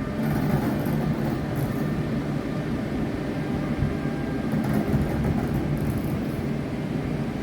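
A train running through the station: a steady rumble and hum, with brief patches of high hiss about a second in and again around the middle.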